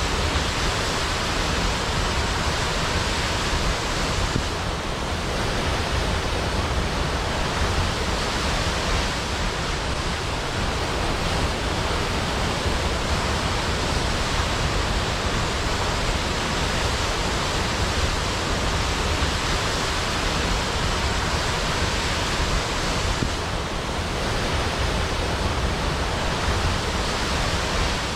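Waterfall crashing steadily: a continuous, even rush of falling water with no breaks.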